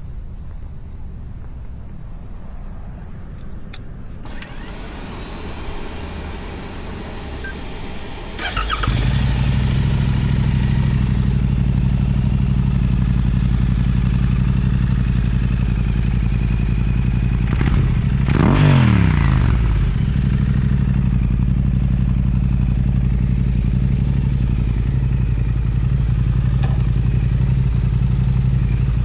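Suzuki motorcycle with an Akrapovic exhaust starting up about a third of the way in, then idling steadily. About two-thirds of the way through, the throttle is blipped once, a brief rise and fall in engine pitch.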